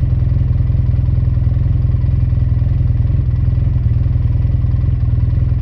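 A vehicle engine running steadily at idle, a low, even rumble of rapid firing pulses.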